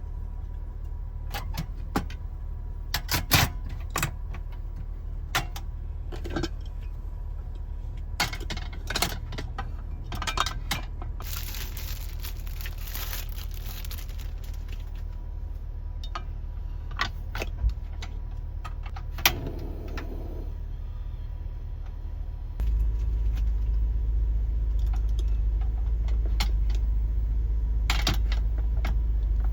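Scattered clicks and clinks of small hard objects being handled, over a steady low rumble that gets louder about two-thirds of the way through.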